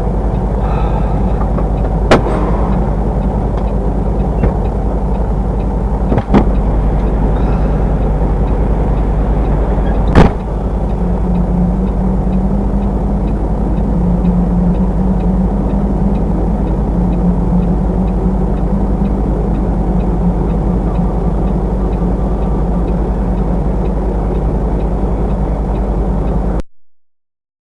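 Truck engine running steadily as a loud low drone heard from inside the cab. Three sharp knocks come about 2, 6 and 10 seconds in, the last the loudest. The sound cuts off abruptly near the end.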